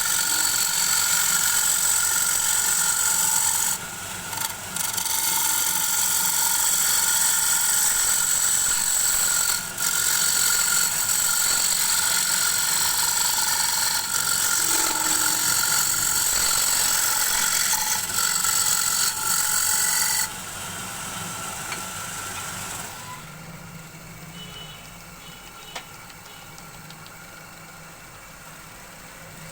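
Wood lathe turning a bowl, a hand tool cutting into the spinning wood with a steady hiss and high whine that eases off briefly twice. About two-thirds of the way through the cutting stops and a quieter machine hum is left.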